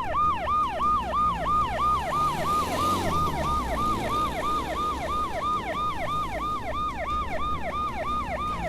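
Ambulance siren in a fast yelp, a rapid rising-and-falling wail about three to four times a second, over a low rumble.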